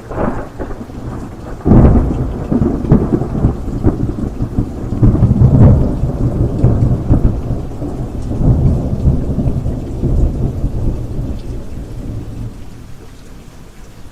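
Thunderstorm: a sharp thunderclap about two seconds in that rolls on in low rumbles, fading near the end, over steady rain.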